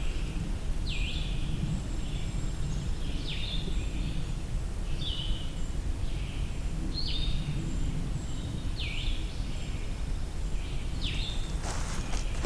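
A songbird in woodland repeating a short, high, falling phrase about every two seconds, with a low steady rumble of wind under it.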